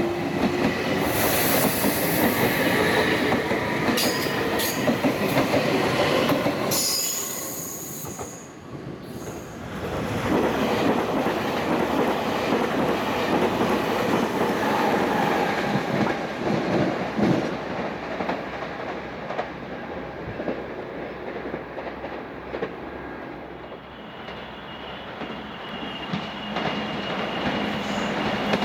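Meitetsu electric commuter trains passing through a station one after another. A train runs past with rail noise and a steady high whine, followed by a brief lull about eight seconds in. A second train then rushes past at speed and fades, and a third is heard approaching near the end with a steady high tone.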